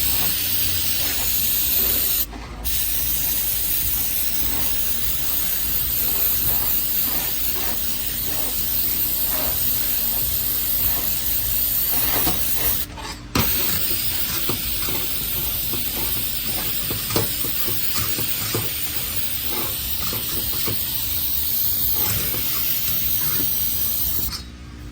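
Steady hiss of a pressurised spray cleaning a 6L80 transmission part, most likely a compressed-air blow gun, cut off briefly twice and stopping near the end.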